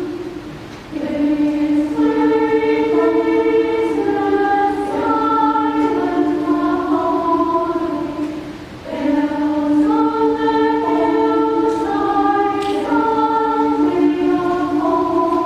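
Women's choir singing in parts, holding long notes in phrases, with short breaks between phrases about a second in and again near the middle.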